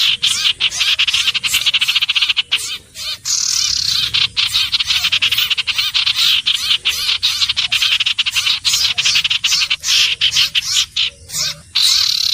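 Common iora calling: fast runs of high, rapidly repeated notes, with short breaks between runs.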